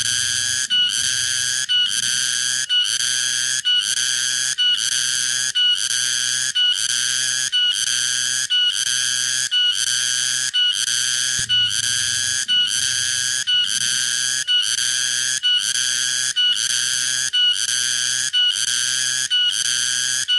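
Tonggeret cicada calling in a steady, even rhythm: high-pitched buzzing pulses about once a second, each separated by a short gap.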